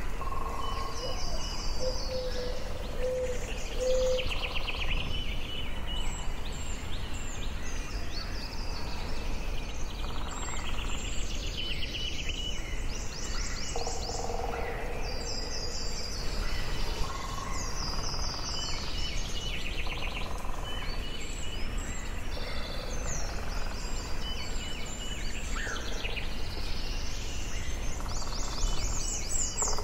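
Forest birdsong: several songbirds singing repeated trilled and whistled phrases over one another, over a steady low background rumble. A short run of four low notes sounds about two to four seconds in.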